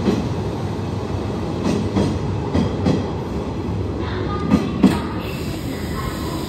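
Hanshin Railway electric train running past the platform in an underground station: a steady low rumble, with pairs of wheel clacks over the rail joints a few times.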